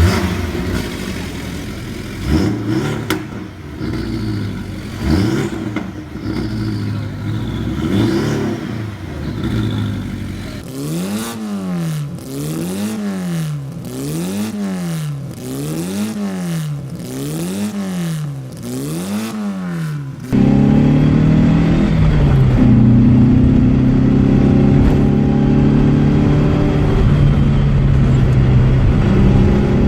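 Flat-four boxer engines revving in three separate recordings. First the revs rise and fall unevenly. From about ten seconds in, the revs go up and down evenly about every second and a half. From about twenty seconds in, a louder engine cuts in and runs at a steady high speed.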